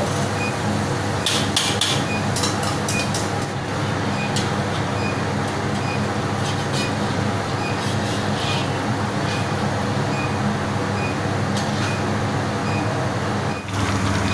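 Chopped garlic sizzling as it fries in hot oil in a wok, with the scrape and clink of a metal spatula stirring it now and then, over a steady low roar.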